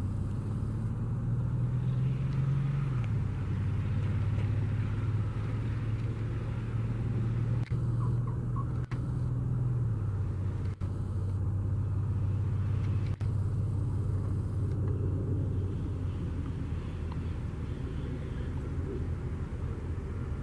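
Cessna 182Q Skylane's six-cylinder Continental O-470 engine and propeller running with a steady low drone, the pitch stepping down slightly about 3 seconds and again about 10 seconds in. The sound cuts out for an instant four times.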